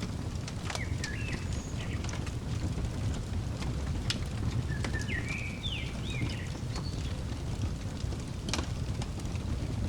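Fireplace crackling, with occasional sharp pops over a steady low rumble. A bird sings two short chirping phrases, about a second in and again around five to six seconds in.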